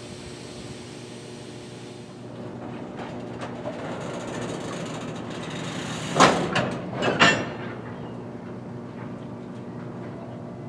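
Norfolk Southern freight train at a grade crossing: a steady low rumble from the train, broken about two-thirds of the way through by two loud bangs from the cars, a second apart.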